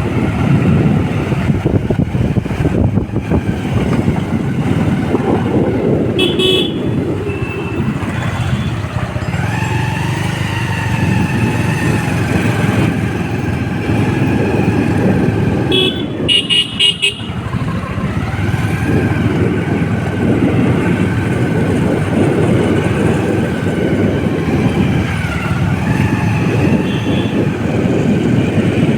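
Riding noise from a moving motorcycle: a steady low rumble with a held hum over it. A horn beeps in quick pulses about six seconds in, and again for about a second around the middle.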